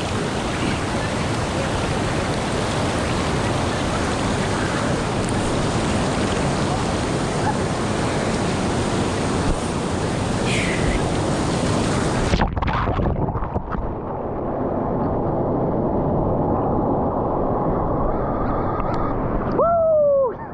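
Loud, steady rush of waterfall water. About twelve seconds in it cuts abruptly to a duller rushing sound. Brief shouts ride over it, with one falling cry near the end.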